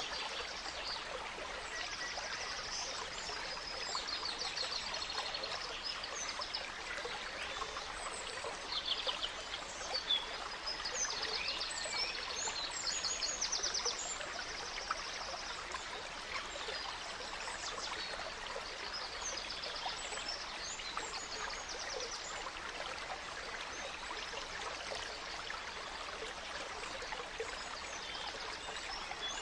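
A small stream running steadily, with songbirds calling and trilling over it, busiest in the first half.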